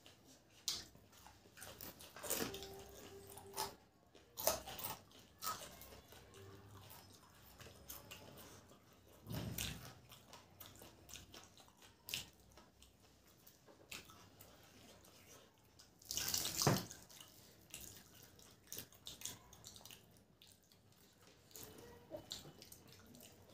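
Close-up eating sounds of two people eating samosas with tamarind chutney: wet chewing and lip-smacking in irregular bursts, with a few louder bites.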